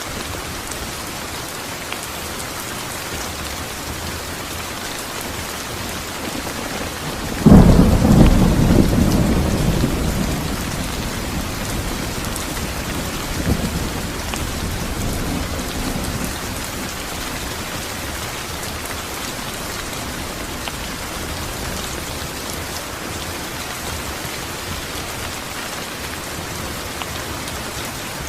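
Steady rain falling, with a sudden loud thunderclap about seven seconds in that rumbles away over several seconds, and a fainter rumble of thunder a few seconds later.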